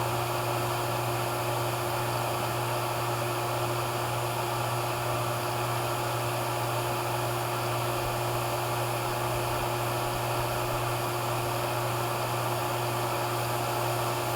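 HVAC vacuum pump running steadily, evacuating an air-conditioning system that is already pulled down to under 200 microns: an even motor hum with a steady tone over a hiss.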